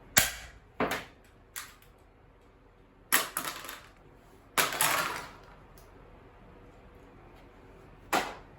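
Sharp snaps and clatters of a small scrap electrical item being broken apart by hand rather than unscrewed. There are about six separate cracks, with a short run of rattling hits near the middle.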